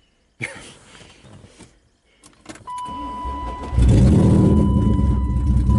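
A BMW's engine is cranked and catches just before four seconds in, then idles loud and steady. A clunk comes about half a second in, and a steady high beep sounds from a little before the engine catches.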